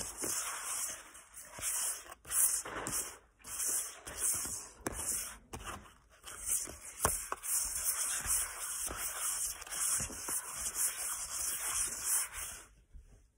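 Crunchy chocolate cookies being chewed close to the microphone: irregular bursts of crackly crunching with short pauses. It stops near the end.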